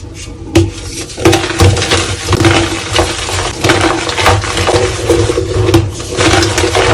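Soft reformed gym chalk being crushed and crumbled: a dense, continuous run of dry crackles and crunches over repeated dull thuds, getting busier about a second in.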